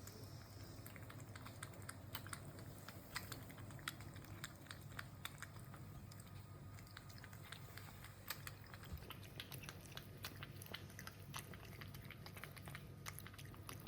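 A cat lapping water: a quiet, irregular run of small wet clicks, several a second.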